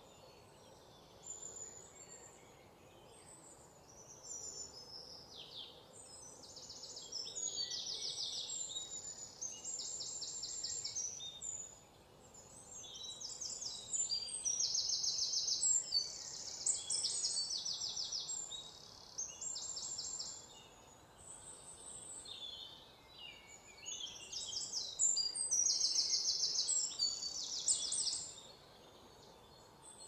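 Birdsong: repeated high-pitched phrases of rapid trills and short chirps, with quieter pauses between them. It is loudest about halfway through and again near the end.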